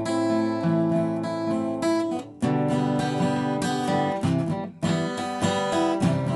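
Acoustic guitar played alone, picking arpeggios in waltz time, with the chord changing every second or two.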